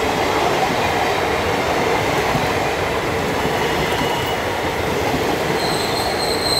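Passenger coaches of an express train passing at speed close by: a loud, steady rush and rumble of wheels on the rails. A thin, high-pitched squeal comes in near the end.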